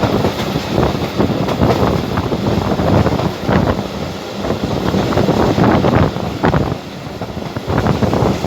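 Passenger train running along the track, a loud noisy rumble and rattle that swells and eases, with wind buffeting the microphone.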